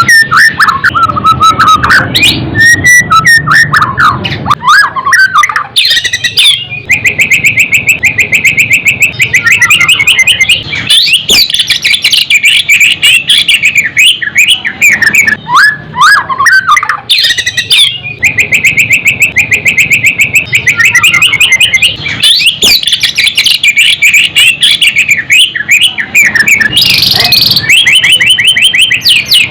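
White-rumped shama (murai batu) singing loudly: varied whistled phrases and glides alternating with long runs of very fast repeated notes.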